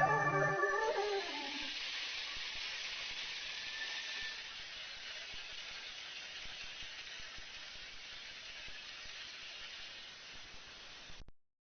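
The last sped-up, high-pitched sung note of the song ends in the first second. A steady hiss follows and fades slowly, then cuts off abruptly to silence about a second before the end.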